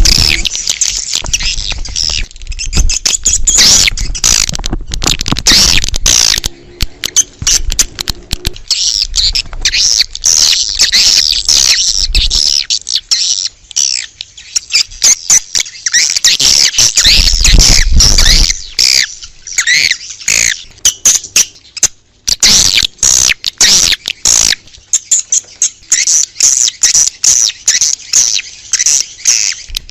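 Recorded swiftlet calls: dense twittering and chirping of many swiftlets, mixed with lots of sharp clicks. This is an outdoor lure call, played to draw swiftlets to a nesting house.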